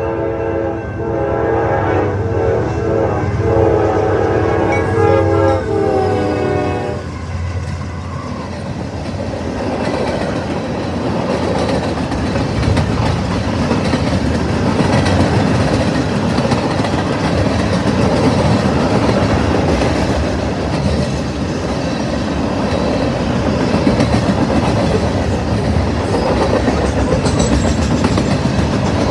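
Freight train horn sounding several notes at once as the locomotives reach the grade crossing, cutting off about seven seconds in. Then the train's freight cars roll past close by with a steady rumble and wheel clickety-clack.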